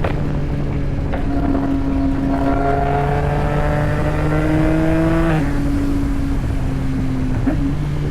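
Yamaha MT-09 three-cylinder engine running under way, its pitch climbing steadily as it accelerates in gear, then dropping suddenly about five seconds in at a gear change and settling to a steady pitch.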